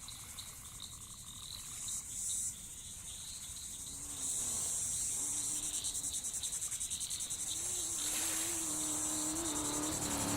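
Crickets chirping steadily. A low, steady drone comes in about four seconds in and grows louder toward the end.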